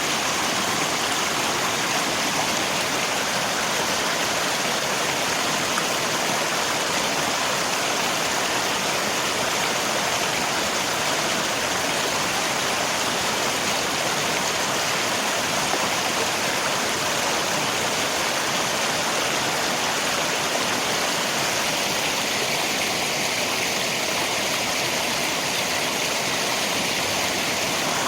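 Rain falling together with a flowing river, a steady, even rush of water with no breaks.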